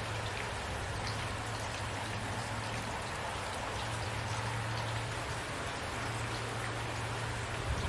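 Steady rain falling, with scattered individual drops ticking on a surface over an even hiss and a faint low rumble.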